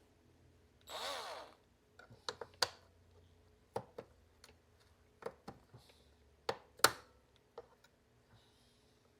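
Hand tools working on a robot vacuum's plastic housing: a short rising squeal about a second in, then a series of sharp clicks and taps on the plastic, the loudest about two-thirds of the way through.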